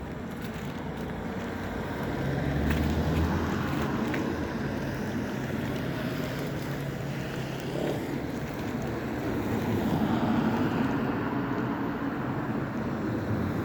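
Road traffic going by: engines and tyre noise of passing vehicles, swelling as one passes a couple of seconds in and again about ten seconds in.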